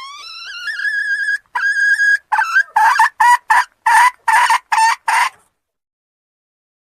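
Junglefowl call from a bird-lure recording: a drawn-out note rising in pitch, a second held note, then a quick run of about seven short clipped notes that stops about five and a half seconds in.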